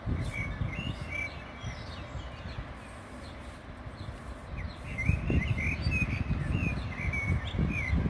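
Small birds chirping in quick, short notes, a few near the start and a busy run from about halfway on, over a low, uneven rumble that grows louder in the second half.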